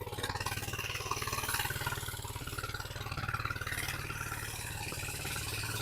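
2020 Coleman 100cc minibike's single-cylinder engine idling steadily.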